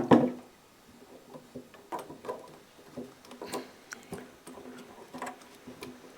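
Light, irregular clicks and taps, a few each second, with a louder knock at the start: small handling noises of hands and parts close to the microphone.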